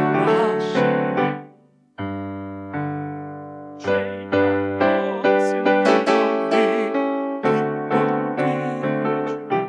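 Slow, solo instrumental piano music. The notes die away about a second and a half in, a new held chord comes in at two seconds, and from about four seconds in struck notes follow about twice a second.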